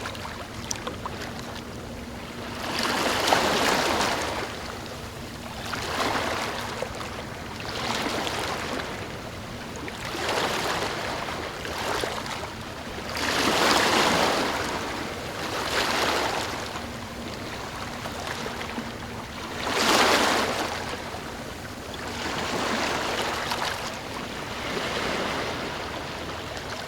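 Ocean waves washing in, a surge of surf every two to three seconds over a steady wash of water, with the strongest surges about halfway through and again about three quarters through.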